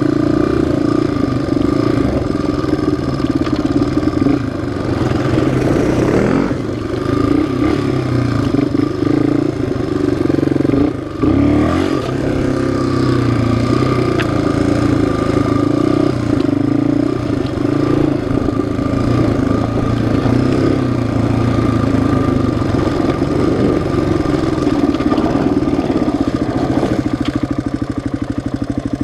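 Yamaha single-cylinder four-stroke off-road engine running under throttle while riding a trail, with brief dips in revs about five, six and eleven seconds in as the throttle is lifted.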